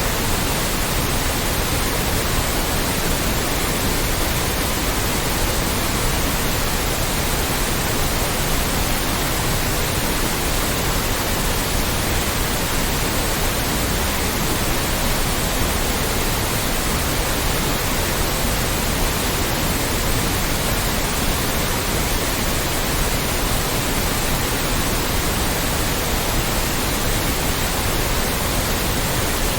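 Loud, steady white noise: an even, unchanging hiss spread across all pitches.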